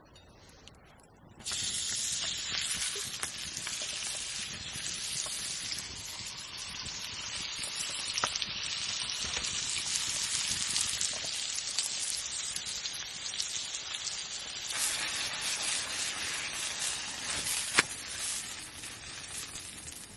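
Food sizzling and frying in a pan over a campfire, starting suddenly about a second and a half in, as if the food has just gone into the hot pan; a sharp click near the end.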